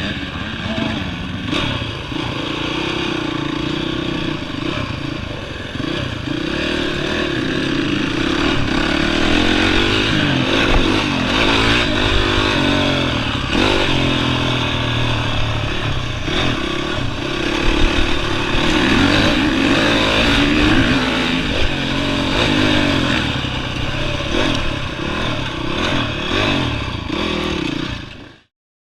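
Honda CRF450R motocross bike's single-cylinder four-stroke engine being ridden hard, revving up and down continuously as it accelerates and shifts. It fades out and cuts off shortly before the end.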